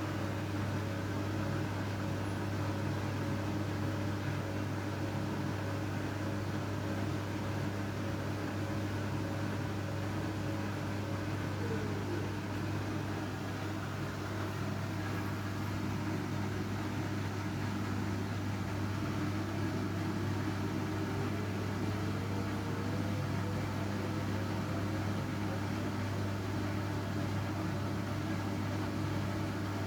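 Washing machine running with blankets inside: a steady motor hum, with a faint whine that drops about twelve seconds in and climbs again a few seconds later as the motor changes speed.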